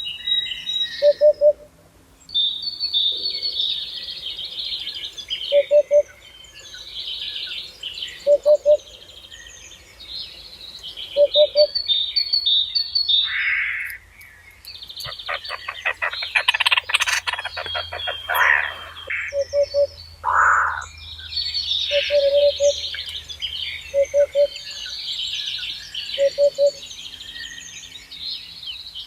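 Several songbirds singing and chirping in high, rapid trills. A short low call repeats every two to three seconds, and about halfway through there is a rapid run of clicks with a few sweeping notes.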